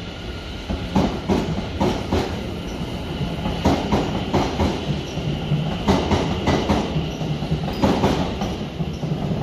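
London Overground electric train passing slowly, its wheels clacking over rail joints, mostly in pairs a second or two apart, over a steady low rumble, with a faint high whine.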